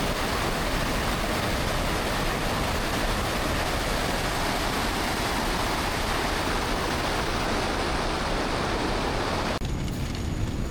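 Steady loud rushing noise, like wind on a moving microphone or running water. About nine and a half seconds in it cuts off abruptly to a quieter low rumble with a thin, steady high-pitched tone.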